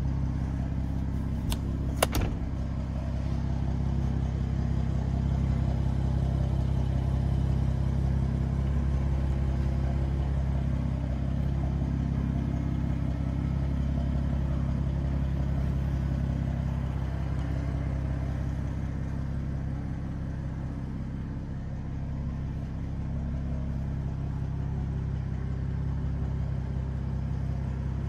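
BMW M235i's turbocharged straight-six idling steadily through a Milltek exhaust, with a sharp click about two seconds in.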